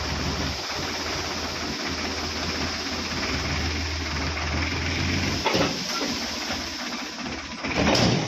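Sonalika DI 750 tractor engine running steadily with a low hum, which drops away about five seconds in. A short knock follows, then a louder noisy burst near the end.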